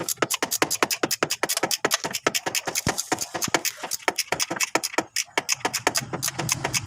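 Rapid, even scraping or scrubbing strokes from hand work, about seven a second, with a brief pause near the end.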